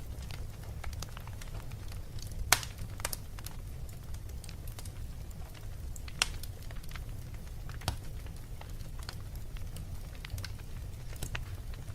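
Fire in a fireplace crackling, with scattered sharp pops over a steady low rumble; the loudest pop comes about two and a half seconds in.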